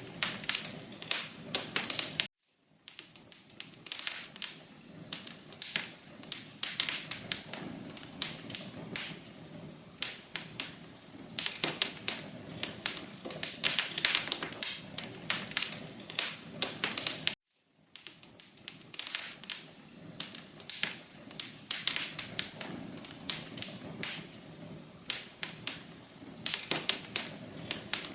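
Wood fire crackling in a fireplace: dense, irregular pops and snaps over a low hiss. The sound drops out completely for a moment twice, a little over two seconds in and again about seventeen seconds in.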